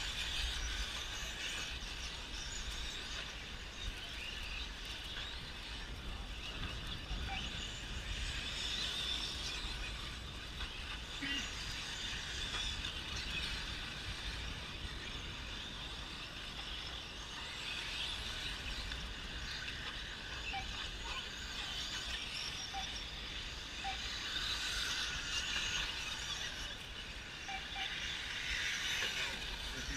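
A pack of electric 1/10-scale RC short-course trucks racing, their brushless motors whining high and the sound swelling and fading as they pass. A low rumble runs underneath.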